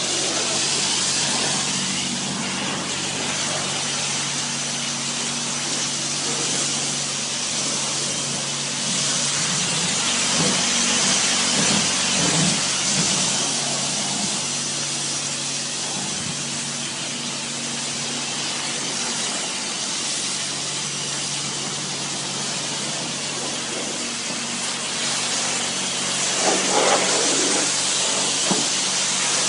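Steady rushing hiss of spraying water over a low, even machine hum, with small swells now and then.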